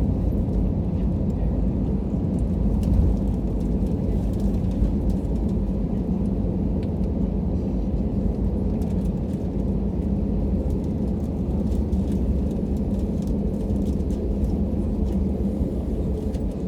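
Cabin noise of an Airbus A320 during its landing: a steady low rumble of engines and airflow, with a couple of brief bumps in the first five seconds.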